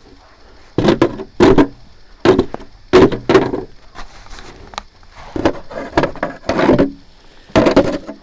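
A series of loud knocks and scrapes on the fire escape stairs, about nine of them in uneven clusters, with short pauses around the middle.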